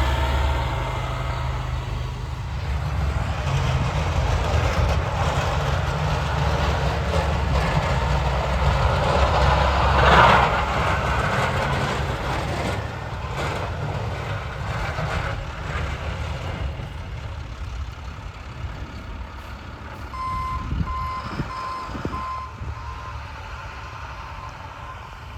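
Snowplow truck engine running with a steady low rumble, a louder rushing surge about ten seconds in, then a backup alarm beeping about twice a second near the end.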